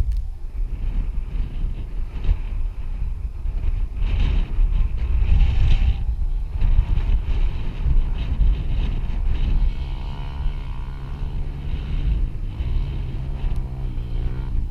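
Honda XR250 Tornado trail motorcycle engine running on the move, with heavy wind buffeting on the microphone. About ten seconds in, the engine settles into a steady, even note.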